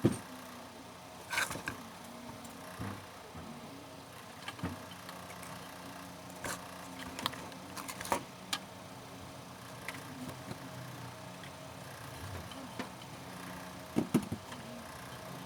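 Scattered small clicks and knocks of tools and parts being handled during an extension cord repair, over a steady low hum. A sharper double knock comes near the end.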